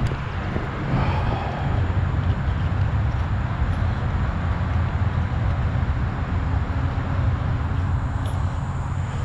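Steady low rumble of an engine running, unchanged throughout.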